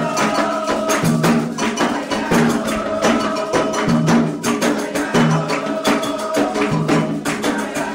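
Candomblé ritual music: atabaque hand drums playing a fast, steady rhythm with dense sharp strikes of a bell or shaker over it, and held chanting tones above.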